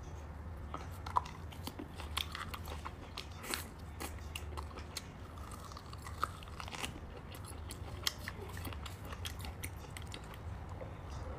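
Close-miked eating sounds: a person chewing soft braised beef bone marrow, with sharp wet mouth clicks scattered throughout.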